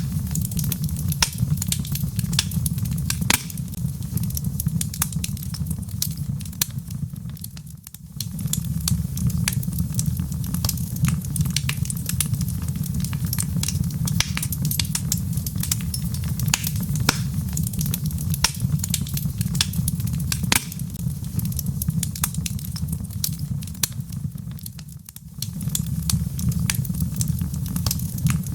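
Burning logs crackling, with frequent sharp pops and snaps over a steady low rumble of the flames. The sound briefly drops away twice, about a third of the way in and near the end.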